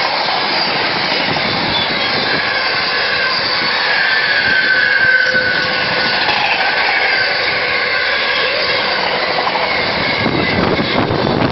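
Freight train's container wagons rolling past close by: a loud, steady rush of wheels on the rails, with high thin tones that slowly fall in pitch.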